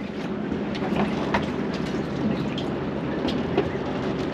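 Boat engine running steadily under a wash of water noise, with scattered short clicks and knocks.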